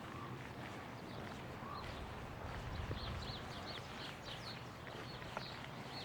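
Sparrows chirping in many quick, short calls over a steady low rumble.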